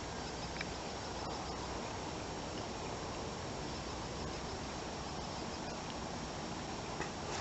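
Steady outdoor background noise: an even hiss over a low rumble, with a few faint ticks.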